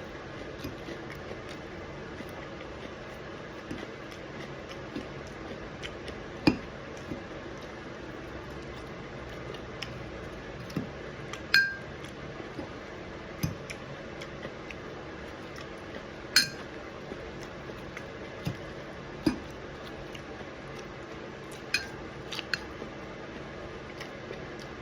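Cutlery clinking and scraping against a plate now and then while eating, with sharp, briefly ringing clinks every few seconds over steady background noise.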